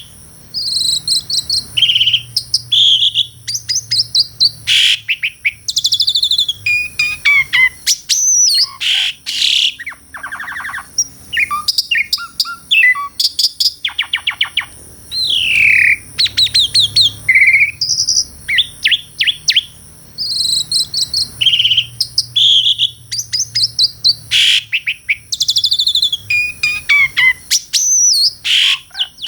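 Asian pied starling (jalak suren) singing a long, varied song: clear whistles, sweeping glides and fast rattling trills follow one another with only brief gaps.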